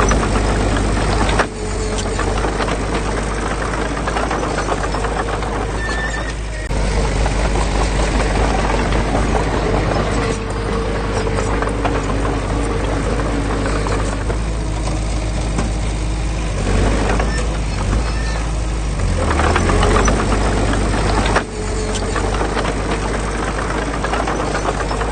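Diesel engine of heavy earthmoving machinery running steadily, a continuous low drone under dense mechanical clatter, with abrupt breaks about a second and a half in and again near the end.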